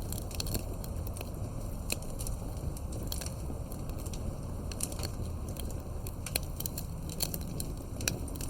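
Campfire crackling: irregular sharp pops and snaps of burning firewood over a steady low rumble of the flames.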